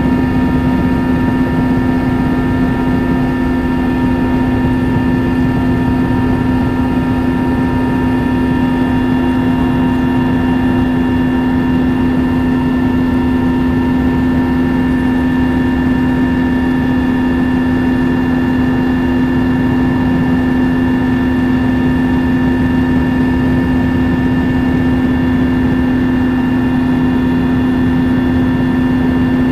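Helicopter in flight heard from on board: a loud, steady drone of engine and rotors with a strong unchanging hum and a few higher steady whining tones over a rushing noise.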